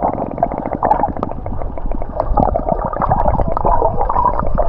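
Water gurgling and sloshing around a microphone at or under the sea surface while swimming, muffled and bubbly.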